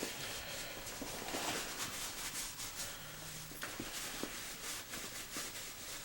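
Light rustling and rubbing of cloth as a pair of cotton cargo pants is handled, with a few small clicks.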